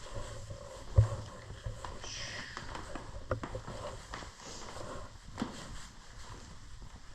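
Footsteps on a hard floor, with irregular knocks and a louder thump about a second in.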